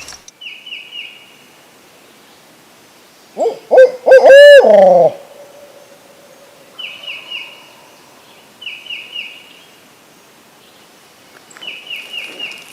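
A loud owl hoot, a quick run of notes ending in a falling drawl, about three and a half seconds in. A distant wild turkey gobbler gobbles four times around it, as faint, quick, high rattling notes.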